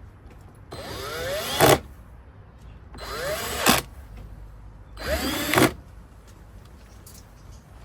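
A cordless power drill/driver run in three short bursts, each spinning up in pitch and ending in a sharp loud peak, as screws or bolts are driven on the scooter wheel assembly.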